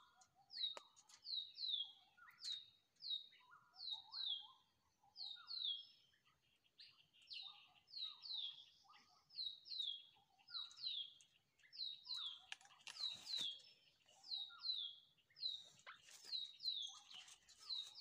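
Small birds calling: short chirps that fall in pitch, often in pairs, repeated a couple of times a second, with lower notes in between. A brief rustle about two-thirds of the way through.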